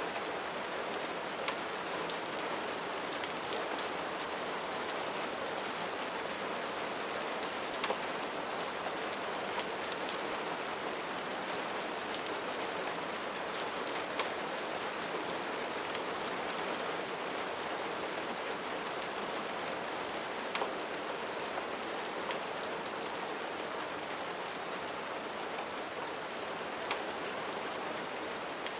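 Steady rain falling on a surface, an even hiss with a few scattered sharp ticks.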